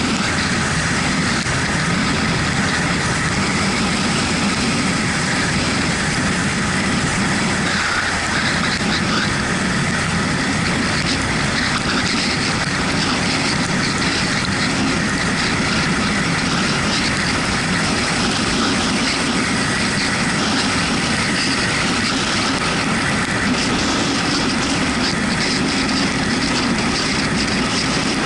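Yamaha MT-125 motorcycle's single-cylinder 125 cc engine running at a steady pace on the move, mixed with wind and wet-road tyre noise.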